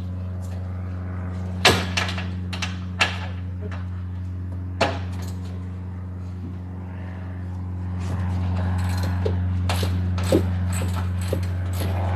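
Metal clinks and sharp knocks of tools working on a car seat's mounting bolts, a few separate knocks in the first five seconds, then a run of quicker small clicks and clinks. A steady low hum sounds underneath.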